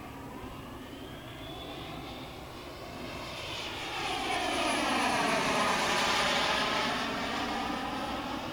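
Jet-Italia Kayman 190 model jet turbine on a radio-controlled jet flying past: a rushing jet noise with a faint high whine, swelling to its loudest about five to six seconds in and then easing off.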